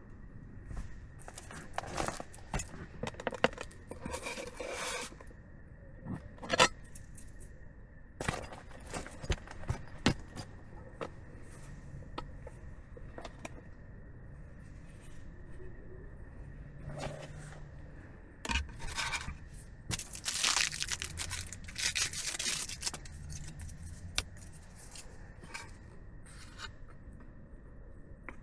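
Objects being handled: irregular clinks, knocks and scrapes, with rustling that is busiest a little past the middle.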